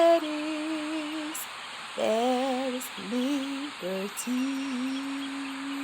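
A woman's voice singing a slow wordless melody: a held note that fades, a few short rising notes about two seconds in, then a long held note from about four seconds in.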